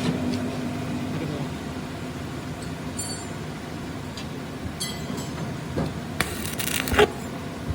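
Metal objects clinking a few times, with short ringing high notes, over a steady background hum, then a brief rasping stretch that ends in a loud metallic knock near the end.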